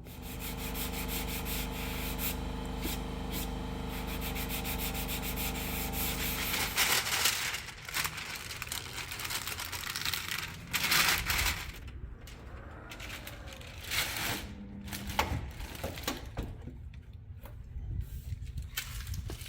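A power sander running steadily on the car's body panel for about seven seconds, scuffing filler and paint in prep for refinishing, followed by irregular stop-start sanding and rubbing.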